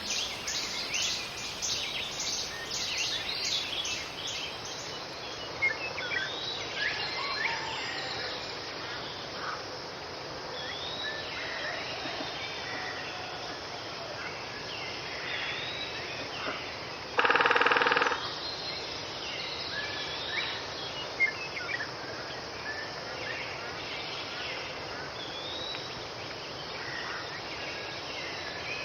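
Outdoor ambience with small birds chirping and singing on and off over a steady background hiss. About two-thirds of the way through, a single loud sound cuts in for under a second.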